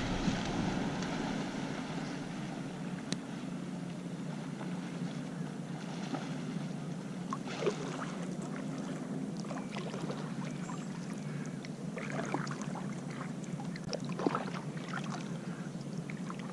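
Water lapping and small splashes and drips around a kayak, with scattered light ticks over a steady low hum.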